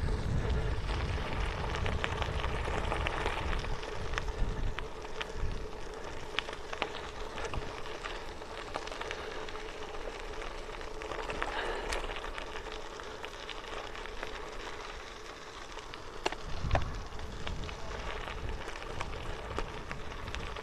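Bicycle tyres rolling over a gravel railway-bed trail with a steady crackle, under wind rumble on the camera's microphone that is strongest at the start and again near the end.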